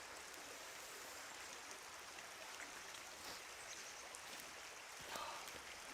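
Steady, faint rush of flowing stream water, with a brief faint sound about five seconds in.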